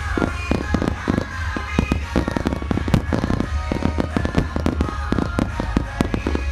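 Fireworks display: a rapid, continuous barrage of aerial shells and mines going off, several sharp bangs and crackles a second, with music playing underneath.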